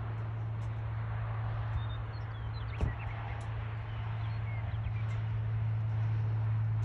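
Steady low hum of a vehicle engine running, with faint short bird chirps over it and one short knock about three seconds in.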